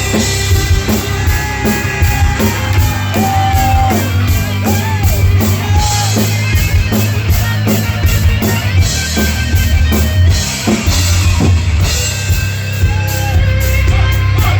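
Live heavy metal band playing an instrumental passage: distorted electric guitars over a drum kit and bass, loud and continuous.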